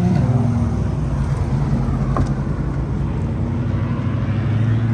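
C8 Corvette Z06's flat-plane V8 engine running as the car rolls through, its pitch easing off after a climb and then holding a steady low drone, rising slightly again near the end.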